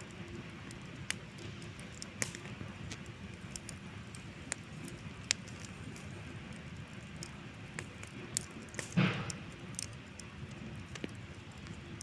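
Wood campfire crackling: irregular sharp pops and snaps over a low steady rush, with one louder, longer burst about nine seconds in.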